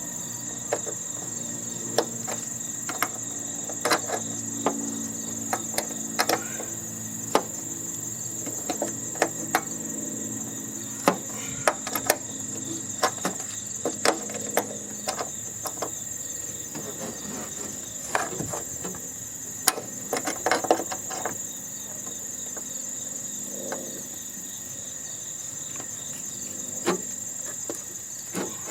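Irregular taps, clanks and clicks of hand tools working on the metal of a heating and air-conditioning unit being dismantled, most of them in the first two-thirds. Under them runs a steady high-pitched chirring of insects.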